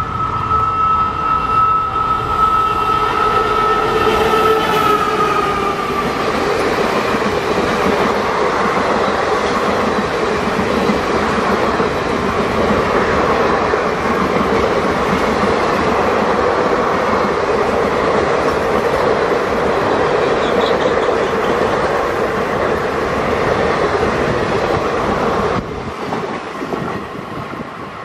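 WAP-4 electric locomotive passing with a passenger train: a steady two-tone horn blast held for about six seconds, dropping in pitch as the locomotive goes by. Then a loud, steady rush of the coaches' wheels on the track as the long rake passes.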